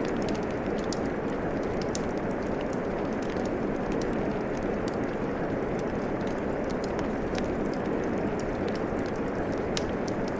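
Steady rain falling, mixed with a crackling wood fire whose sharp snaps and pops come irregularly over the rain.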